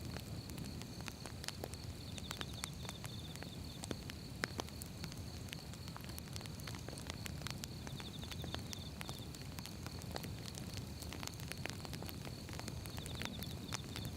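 Firewood burning: logs crackling with irregular sharp pops over a low steady rumble of flame, one pop louder than the rest about four and a half seconds in.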